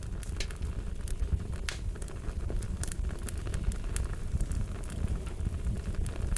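Fire crackling: irregular sharp snaps and pops, several a second, over a steady low rumble.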